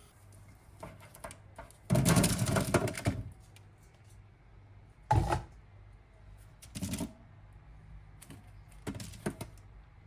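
Everyday handling sounds: a dense clatter lasting about a second, then a few single knocks and clicks spaced a couple of seconds apart.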